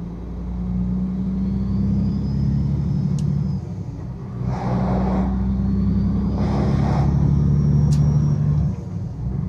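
Semi-truck engine droning steadily, heard from inside the cab while driving. The engine note drops briefly about four seconds in and again near the end, and there are two short rushing noises in between.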